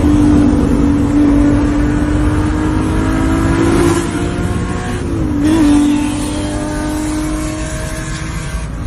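Supercar engine running hard at steady high revs, its note easing slowly upward over the first few seconds, dipping briefly about five seconds in, then holding steady, over a heavy rush of road and wind noise.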